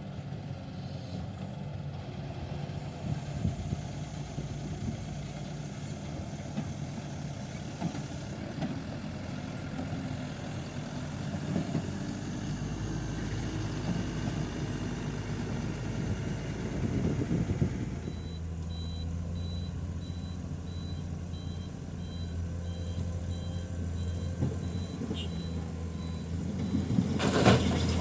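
Diesel dump truck engines running at low revs, with a reversing alarm beeping over and over in two alternating tones from about two-thirds of the way through. A louder rush of noise swells just before the end.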